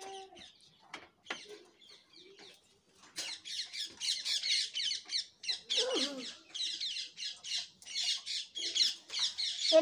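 Birds chirping, many short high calls in quick succession, starting about three seconds in; a brief low call slides down in pitch about six seconds in.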